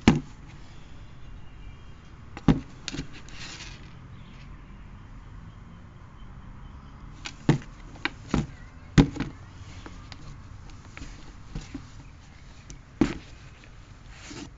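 Shoes and their box being handled: scattered sharp knocks and taps, about eight in all, with a short rustle a few seconds in.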